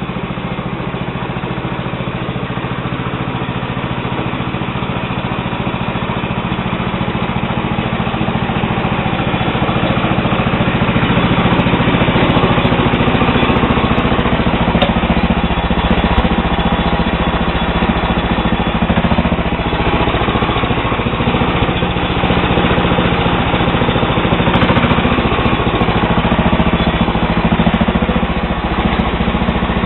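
Sears Suburban SS12 garden tractor's 12 hp Tecumseh HH120 single-cylinder engine running steadily, growing louder over the first ten seconds or so and then holding with small rises and falls.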